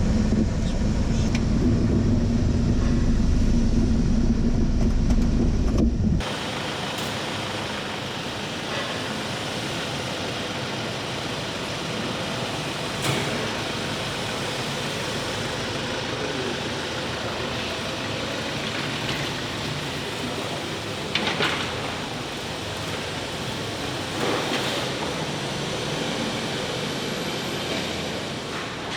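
Car interior noise while driving: a heavy low rumble of engine and road that cuts off abruptly about six seconds in, giving way to a steady hiss of tyre and wind noise with a few faint knocks.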